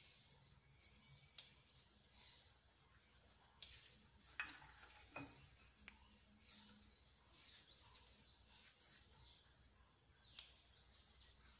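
Faint bird chirping: short, high, falling chirps scattered through, with a few sharp light clicks.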